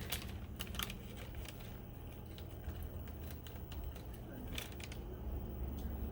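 Swedish torch log burning, the wood crackling with scattered sharp pops and clicks over a low steady rumble.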